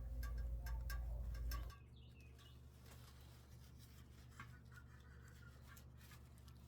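Light clicks and rustles of a flower pot and artificial flowers being handled inside a wire birdcage, over a low hum that stops after a second or two. Then faint outdoor background with a few soft bird chirps.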